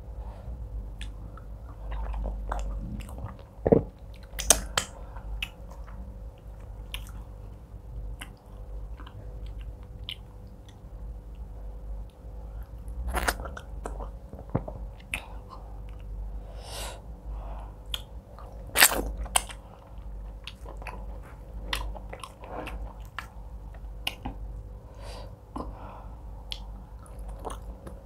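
Close-miked chewing and mouth sounds of fufu and egusi soup eaten by hand, irregular wet smacks and clicks with a few sharper ones about four seconds in, around thirteen seconds and near nineteen seconds. A faint steady hum runs underneath.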